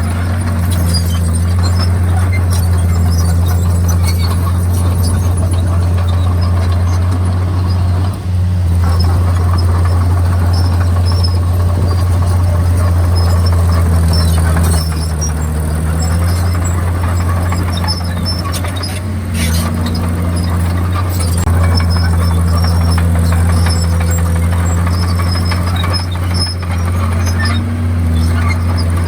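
Komatsu D51PX crawler bulldozer's diesel engine running loudly under work. The pitch shifts up and down several times with load, and there are scattered high squeaks.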